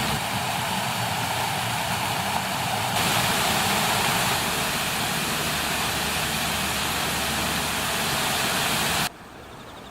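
Steady rush of flowing water from a stream, with a slight change in its sound about three seconds in and a sudden drop to a much quieter level near the end.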